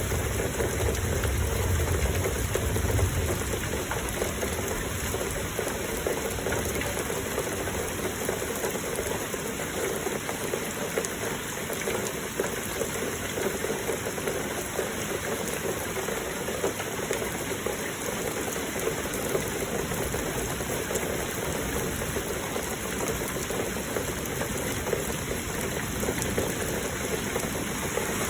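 Heavy rain falling steadily, mixed with flowing water, as an even, unbroken hiss. A low rumble sits under it for the first few seconds.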